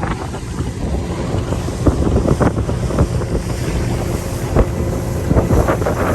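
Motorboat running across the lake, with heavy wind buffeting the microphone in frequent short thumps.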